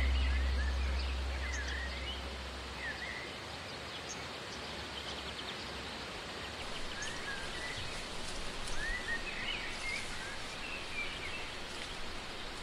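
Small birds chirping on and off over steady outdoor background noise. A deep sustained tone fades out over the first couple of seconds.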